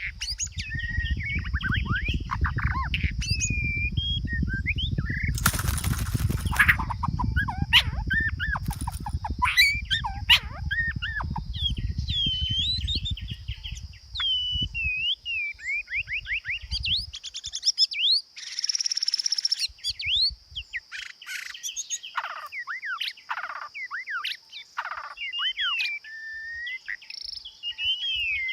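Songbird singing a long run of quick, varied whistled phrases that rise and fall. A low rumble runs under the first half and fades out about halfway, and there are two short noisy bursts.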